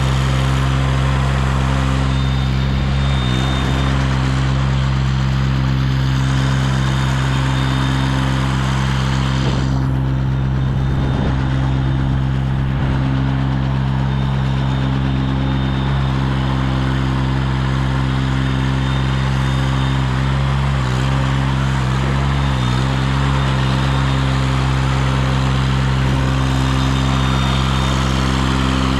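Engine of a CMC 90-foot tracked aerial lift running steadily at a constant speed, with a few brief small dips in pitch.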